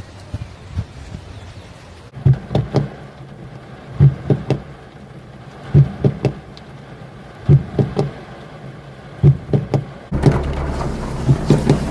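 Heavy knocks in short clusters of two or three, repeating about every second and a half to two seconds. About ten seconds in, a loud, steady rush of storm wind and rain takes over.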